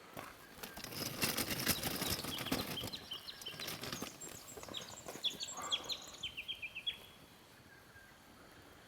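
A few seconds of dense rustling and clicking, then a bird calling a quick run of about eight short, falling chirps before it goes quiet.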